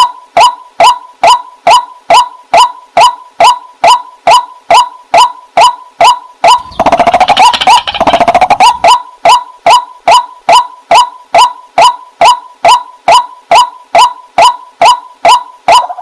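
Waterhen calling: a loud, monotonous run of short notes, about three a second, each dropping slightly in pitch. About seven seconds in, the calls thicken into a rougher, denser stretch for a couple of seconds before the even rhythm resumes.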